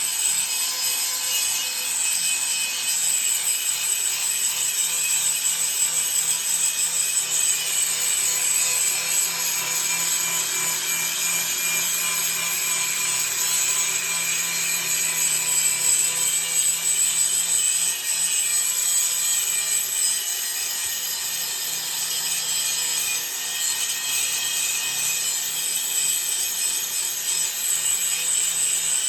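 Angle grinder with an abrasive grinding wheel grinding down thick arc-weld lumps on a steel sheet: a steady, continuous grinding rasp with a high whine, never pausing.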